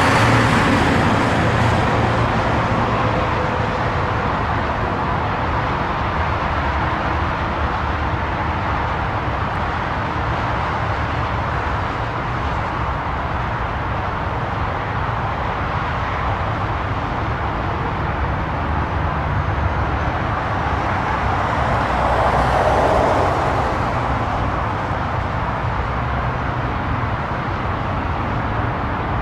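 Steady rumble and hiss of a Boeing 777 taxiing after landing, its engines at idle, swelling slightly about three-quarters of the way through.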